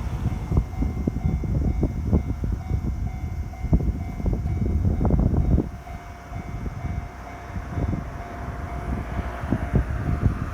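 A train passing over a level crossing on the JR Tokaido Main Line: a heavy rumble with rapid clatter of wheels on the rails, dropping off sharply about six seconds in, under the steady ringing tone of the crossing alarm.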